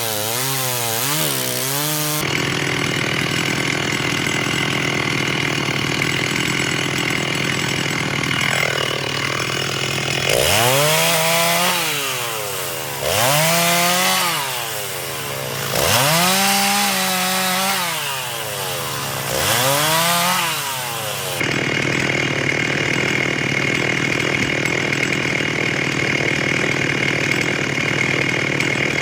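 Chainsaw cutting firewood. It runs steadily under load, then revs up and drops back four times about every three seconds, then runs steadily again with a high whine.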